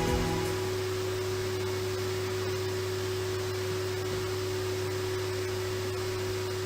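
Hoover A Cubed Silence vacuum cleaner running steadily: an even rushing noise with a constant low hum and one held tone.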